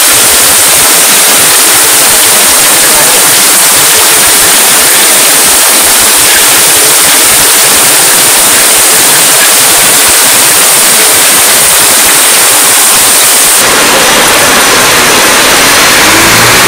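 Heavy monsoon rain pouring onto flooded ground: a loud, steady hiss of downpour and splashing on standing water. About fourteen seconds in the sound shifts and a low rumble joins the rain.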